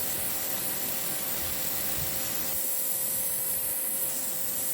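Parkside electric pressure washer running, its water jet spraying onto dirty paving slabs: a steady hiss of water over a steady motor whine.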